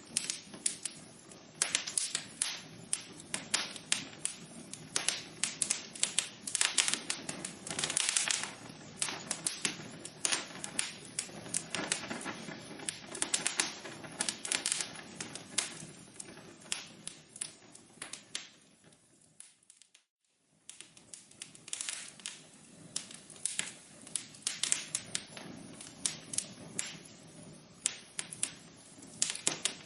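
Wood fire crackling in a fireplace: dense, irregular pops and snaps over a soft hiss. About twenty seconds in it fades to near silence for a second or so, then the crackling resumes.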